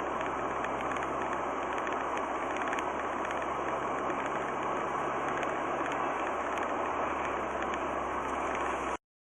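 Steady driving noise of a car: a low engine drone under an even hiss of road and wind noise. It cuts off abruptly near the end.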